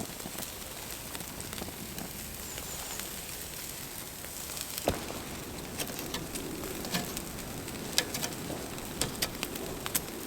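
Bacon sizzling over a campfire: a steady hiss with scattered sharp pops and crackles, one stronger pop about five seconds in and more of them in the second half.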